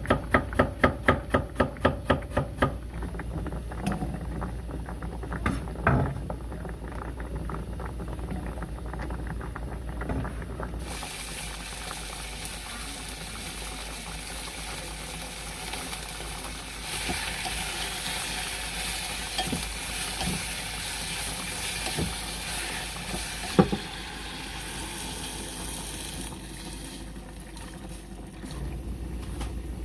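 Kitchen cooking sounds: a quick run of knocks, about four a second, at the start, then food sizzling in a pan as a steady hiss, with a sharp knock partway through.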